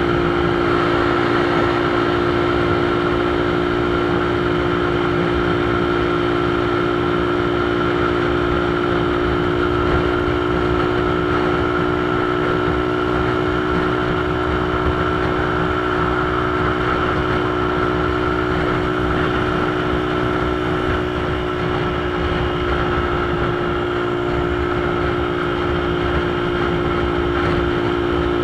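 Motorcycle engine running at a steady speed, a constant drone that holds one pitch throughout, over rushing road and wind noise.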